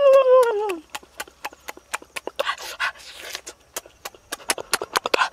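A high, drawn-out whine that slides down and dies away within the first second, then wet lip-smacking and chewing clicks of someone eating roast duck, with a breath or two between.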